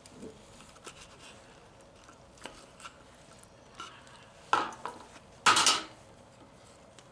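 Metal utensils clinking and scraping on cookware: scattered light clicks, with two louder scrapes about four and a half and five and a half seconds in.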